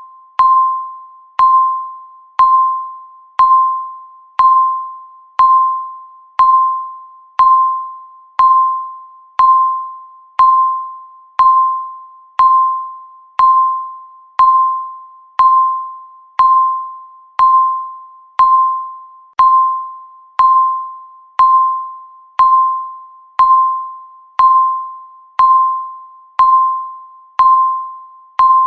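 Countdown timer's per-second tick: a single-pitched electronic beep struck once a second, each one sharp at the start and dying away before the next, in an even rhythm.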